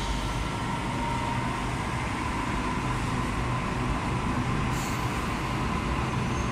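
Double-deck electric passenger train pulling out of an underground station and picking up speed: a steady whine over the rumble of wheels on rails, with a short hiss about five seconds in.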